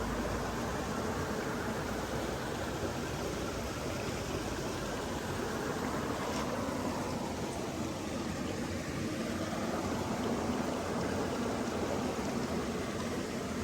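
Running water making a steady rushing noise.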